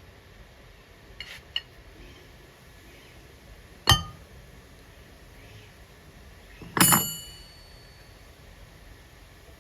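Metal parts clinking while a grinder disc is being changed: two light clicks, then a sharp metallic clink about four seconds in, and a louder clink near the end that rings on for about a second.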